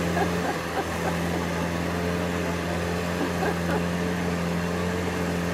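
A vintage car's engine running at a steady speed, a constant low drone with no revving up or down.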